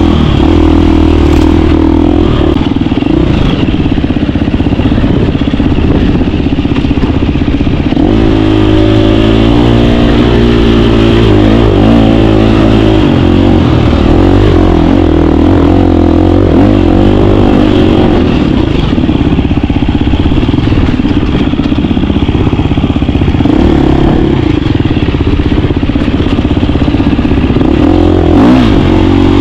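KTM 350 dirt bike's four-stroke single-cylinder engine running under way, its pitch rising and falling with the throttle, most of all in the stretch from about eight to eighteen seconds in.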